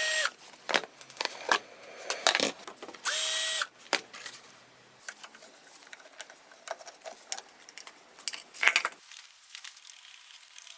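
Cordless drill-driver whirring in two short bursts, one at the start and one about three seconds in. Scattered clicks and clinks of tools and metal parts fill the gaps between them.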